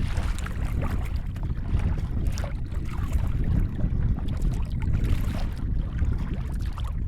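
Wind rumbling on the microphone over water lapping and splashing against a kayak hull.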